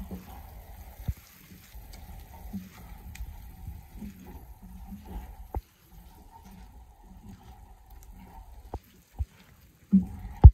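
Chicken cooking in a pan in its own released liquid and sauces, a faint bubbling sizzle, broken by a few sharp clicks; the loudest click comes near the end.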